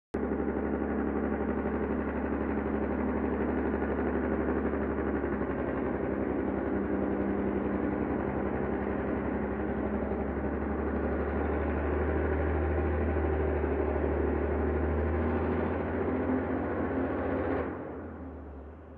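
Peterbilt logging truck's diesel engine with the Jake brake (compression engine brake) on, a steady loud low pulsing drone as the truck comes in. The sound drops away sharply near the end.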